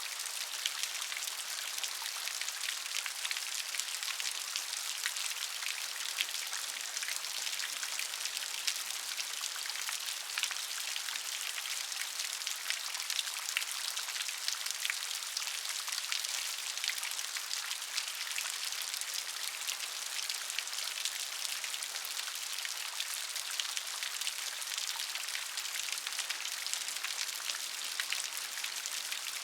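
Steady rain falling, a dense patter of drops hitting a surface, with no thunder or other sounds.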